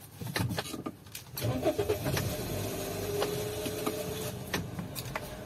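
A 2004 Toyota Corolla's 1.5-litre engine started with the key, heard from inside the cabin. It cranks briefly about a second and a half in, then settles into a steady idle, with a few light clicks.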